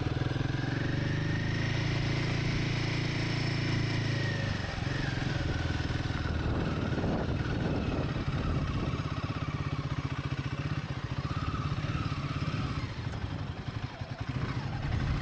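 Royal Enfield Himalayan's single-cylinder engine running as the motorcycle is ridden, with steady low firing pulses; the engine note changes about four to five seconds in.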